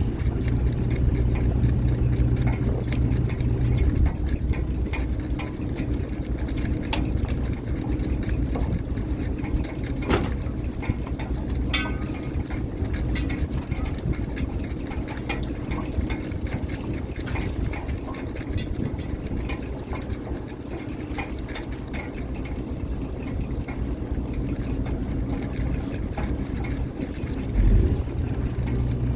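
Fishing boat's engine running steadily, with scattered knocks and clatter over it.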